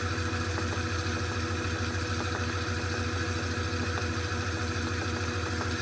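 2012 LG top-load washing machine spinning at full spin speed: a steady, quiet low hum with a thin higher whine and a fast, even pulse from the spinning drum.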